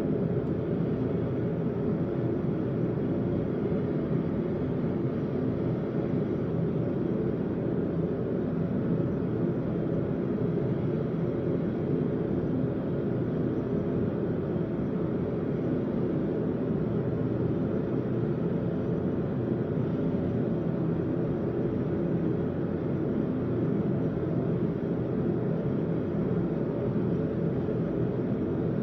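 Forge running with a steady low roar, no hammer strikes.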